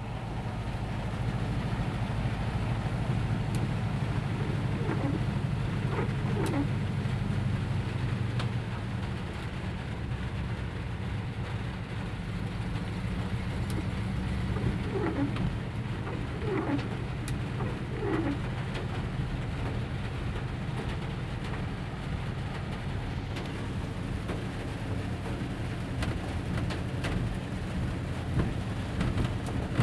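Rain pattering on a van's metal roof, with a steady low hum underneath. A bird coos in short groups of falling notes several times.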